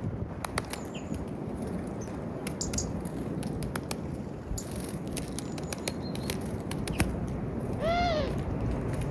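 Wild birds at a peanut feeder: scattered light clicks and taps over a steady rushing background, with one short, harsh call that rises and falls in pitch about eight seconds in.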